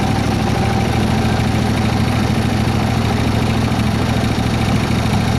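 Engine of a 7¼-inch gauge miniature Baldwin S-12 locomotive running steadily at low speed, a constant low drone.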